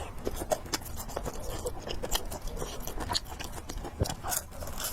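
A person chewing and eating fried noodles with pork: many small, irregular wet mouth clicks and smacks.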